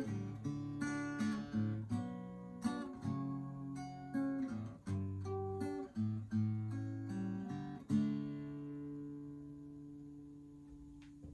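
Acoustic guitar outro: picked and strummed chords, ending about eight seconds in on a final chord that rings out and fades.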